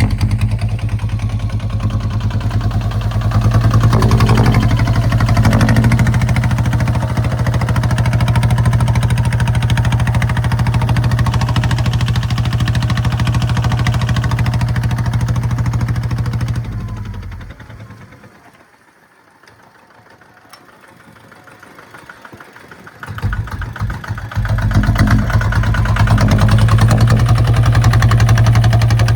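Kubota ZT155 single-cylinder diesel engine of a two-wheel plowing tractor running steadily. Its sound fades out over a couple of seconds about two-thirds of the way through and comes back about five seconds later.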